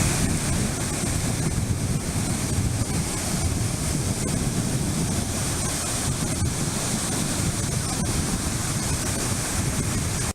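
Sea of Japan surf breaking on a sandy beach as a steady hiss, with wind buffeting the microphone as a low rumble.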